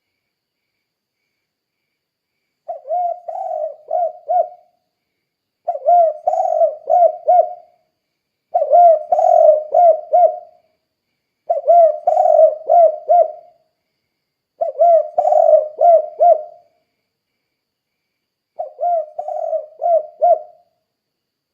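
Spotted dove (tekukur) cooing its 'kuk 2' song: six phrases about every three seconds, each a quick run of four or five low coos.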